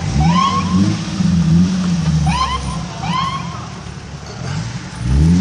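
Heavy vehicle engine pulling away close by, its pitch rising at the start and again near the end, with a few short rising squeals over it.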